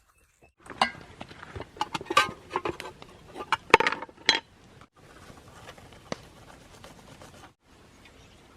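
A run of irregular clinks and light knocks, like metal or hard objects being handled, loudest about four seconds in. A faint steady hiss follows.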